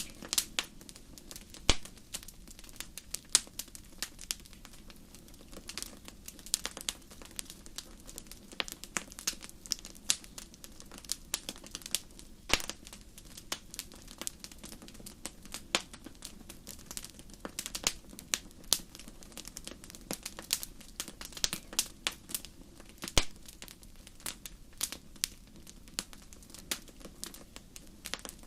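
Wood fire crackling in a fireplace: frequent sharp, irregular pops and snaps over a low steady rumble of the flames.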